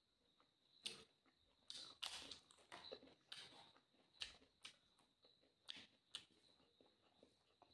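Chewing and crunching of crisp papad, heard close up as irregular sharp crunches, some in quick clusters.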